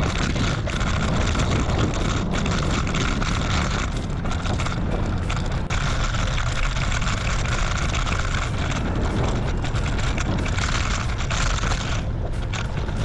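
Strong wind buffeting the microphone while riding a bicycle into a headwind: a loud, steady, deep rumble with hiss over it.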